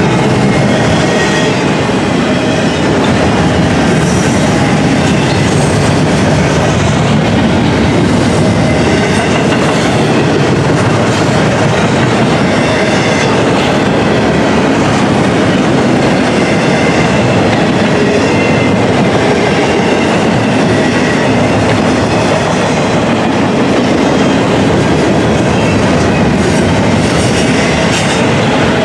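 Intermodal container cars of a freight train rolling past: a loud, steady rumble of steel wheels on rail with clickety-clack over the rail joints and faint high wheel squeals now and then.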